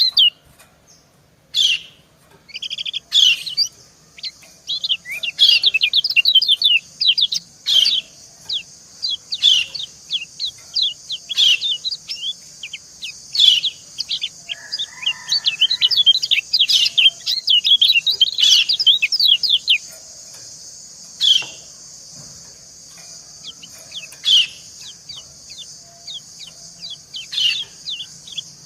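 White-eyes calling: repeated bursts of rapid, high, downward-slurred chirps, the female's 'ciak' calls answered by male song. A steady high hiss runs under the calls for most of the first two-thirds, then stops suddenly.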